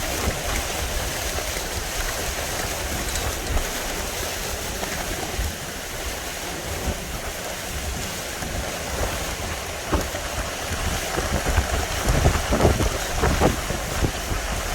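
Hurricane-force wind buffeting the microphone over a steady rush of wind and surf, the gusts growing stronger near the end.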